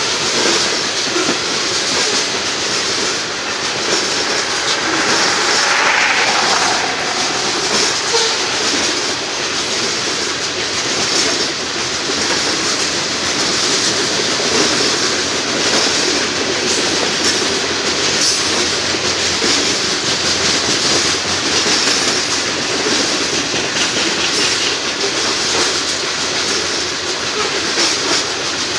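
Loaded coal cars of a Union Pacific coal train rolling past: the steady noise of steel wheels running on the rails, with a brief wheel squeal about six seconds in.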